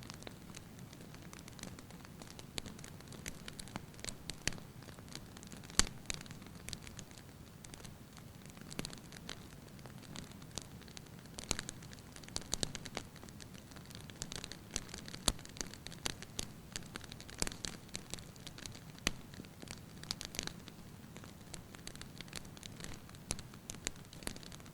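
Wood fire burning in a fireplace, the logs crackling with frequent sharp pops scattered irregularly over a soft low hiss; one of the louder pops comes about six seconds in.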